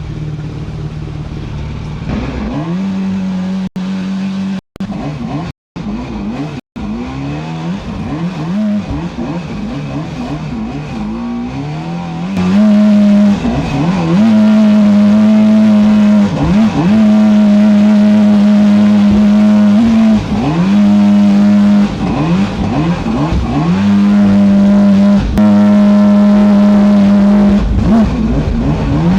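Small boat motor running hard through flood rapids. Its pitch repeatedly sags and recovers, and the sound cuts out completely for moments several times about four to seven seconds in. About halfway through it grows louder and holds a steady high pitch, broken by brief dips every couple of seconds.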